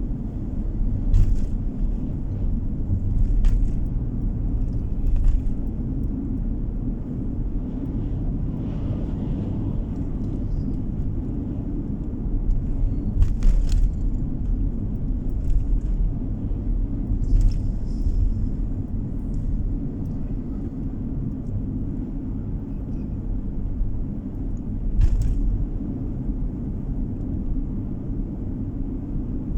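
Steady low rumble of a car driving, engine and tyre noise heard from inside the cabin, with a few short sharp ticks scattered through it.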